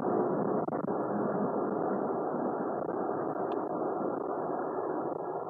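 Steady vehicle noise: an even rumble and hiss from a running car, with no breaks or distinct events.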